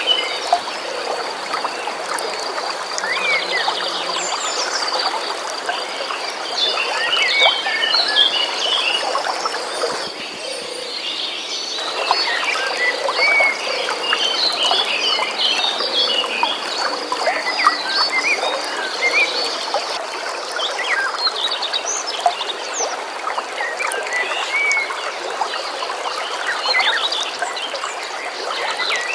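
Many birds chirping in short calls over the steady rush of flowing water, with a continuous high trill behind them. The water noise dips for about two seconds near the middle.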